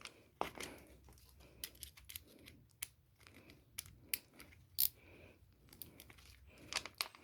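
Irregular light clicks, taps and rustling from small parts being handled and fitted back together by hand.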